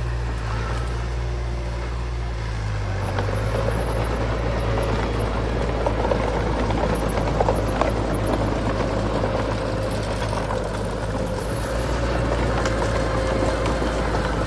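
Heavy diesel earthmoving machinery running steadily, a deep engine rumble with a slight change in pitch about three seconds in.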